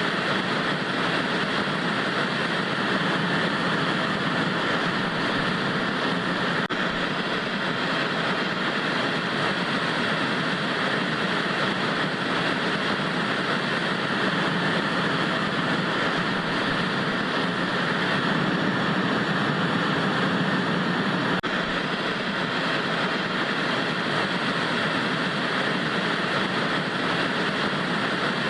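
Steady static hiss of an analogue TV tuned to no station, even and unchanging.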